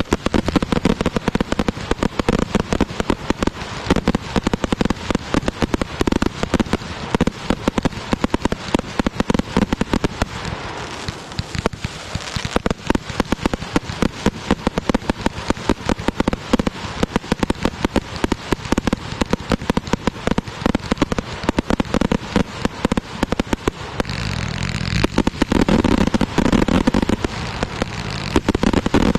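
Fireworks going off in a dense, rapid string of pops and crackles, many each second, getting heavier and louder over the last few seconds.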